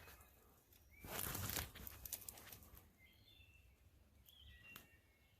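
A short, harsh rasping scrape lasting under a second, about a second in, followed by a few faint clicks. Then faint chirps of small songbirds.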